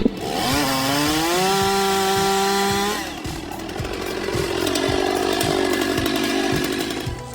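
Chainsaw engine revving up and holding a high, steady full-throttle pitch, which breaks off abruptly about three seconds in. A lower, rougher running sound follows until near the end.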